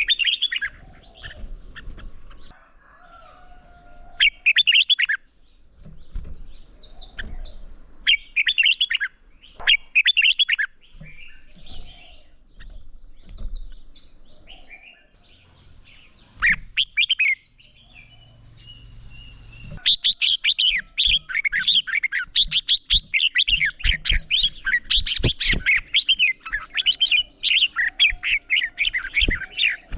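Red-whiskered bulbul singing: short bursts of chirpy song phrases with pauses between them, then, about two-thirds of the way through, a fast, nearly unbroken run of song.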